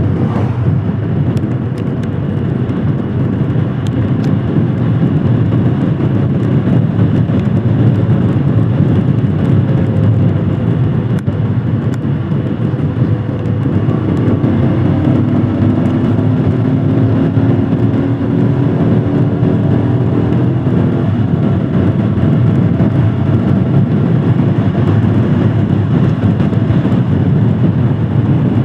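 Royal Enfield Himalayan Scram 411's 411 cc single-cylinder engine running steadily on the move, mixed with road and wind rumble. For several seconds in the middle, a steadier pitched note comes through the rumble.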